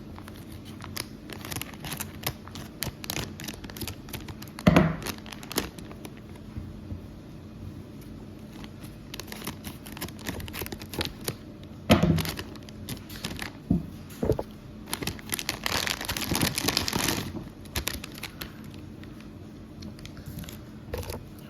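Plastic bag of Haribo Dinosaurs gummy candy being handled and torn open: a long run of crinkling and crackling. There are louder bursts about five and twelve seconds in, and a sustained rustling stretch near the end.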